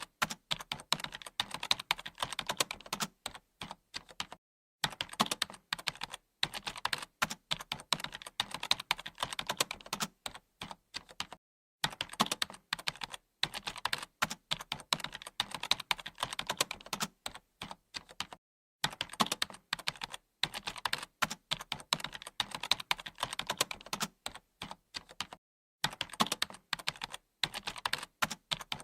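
Computer keyboard being typed on steadily, in fast runs of key clicks broken by brief pauses about every seven seconds.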